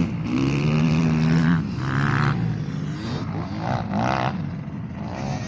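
ATV engine revving: the pitch climbs, holds for about a second, then drops about a second and a half in, followed by lighter, uneven engine sound.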